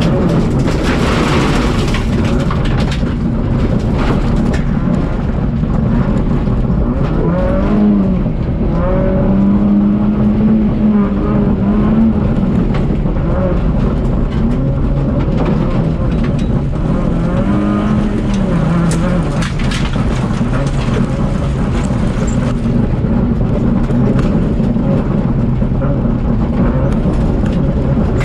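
Citroën Saxo VTS rally car's four-cylinder engine revving hard through corners, its pitch repeatedly climbing under acceleration and dropping on gear changes and lifts.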